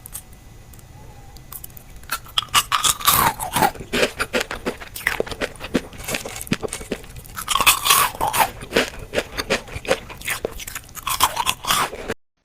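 Frozen fruit being bitten and chewed, with many sharp crunches in quick succession. The crunching starts about two seconds in and cuts off abruptly near the end.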